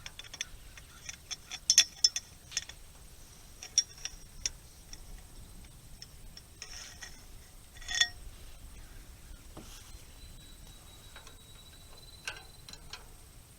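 Wrench and cheater bar working rusted bolts on a hay rake: irregular metallic clicks and clinks, the loudest about eight seconds in.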